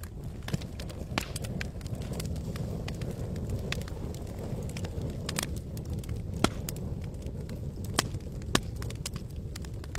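Campfire burning: irregular sharp crackles and pops from the burning wood over a low, steady rush. A few louder pops stand out in the second half.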